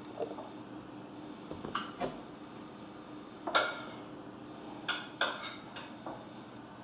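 Hard objects being handled and set down on a table: a string of light clacks and clinks, the loudest about three and a half seconds in.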